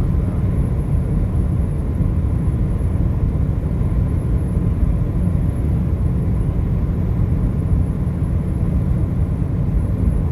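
Steady low rumble of a car driving, road and engine noise that stays even throughout, with a faint steady high whine above it.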